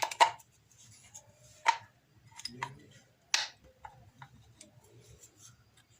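A few sharp metal clicks and knocks with lighter ticks between, as the rebuilt starter motor of a Chinese 110cc engine is lowered and seated back in its place.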